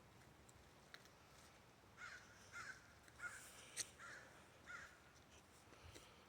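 Faint cawing from a corvid (crow or raven), about five short harsh calls in a row a little over half a second apart, with a sharp click among them.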